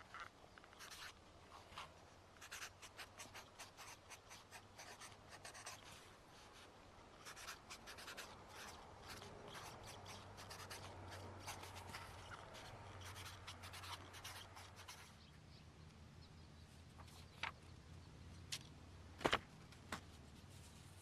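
Handwriting on paper: rapid, faint scratchy strokes, then a few separate sharp taps near the end, one louder than the rest.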